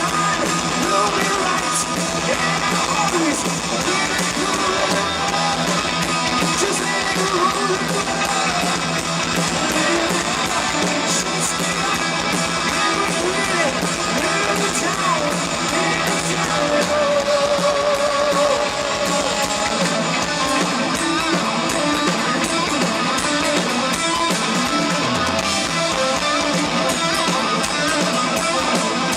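Hard rock band playing live, with electric guitar to the fore.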